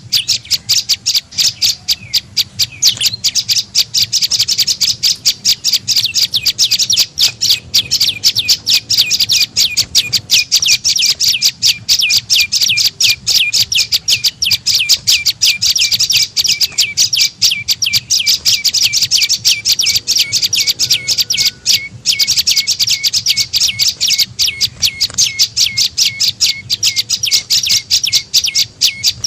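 Prenjak lumut calling in a rapid, continuous run of sharp, high chirps, many a second, with a brief break about 22 seconds in. This is a lure call used to draw in wild birds of the same kind.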